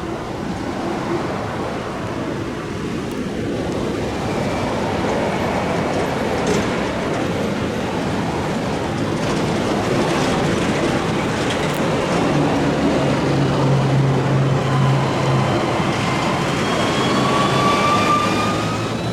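Light rail train running on the tracks with a steady rumble of wheels and running gear. Near the end a whine rises in pitch.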